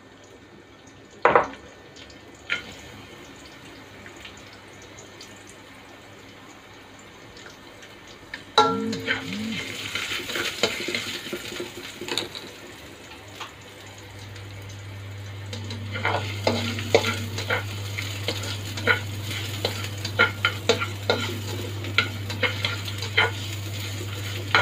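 Garlic and ginger frying in hot oil in a wok. The sizzling starts suddenly about a third of the way in, with frequent sharp clicks of a utensil stirring against the pan. A low steady hum joins about halfway through.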